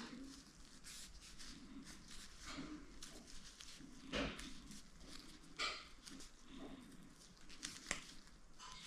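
Scattered handling noises: a few sharp clicks and knocks, the clearest about four, five and a half and eight seconds in, over faint rustling, as of hands working with materials.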